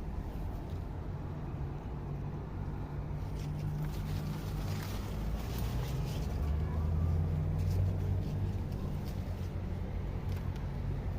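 A motor vehicle engine running with a steady low hum that grows louder a little past the middle and then eases back. A few faint clicks sound over it.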